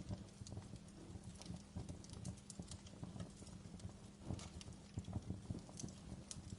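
Fire crackling: irregular sharp pops and snaps at uneven intervals over a low steady rumble.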